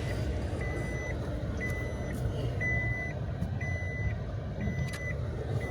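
Electronic warning beeper sounding a high, even beep about once a second, each beep about half a second long, over a steady low rumble.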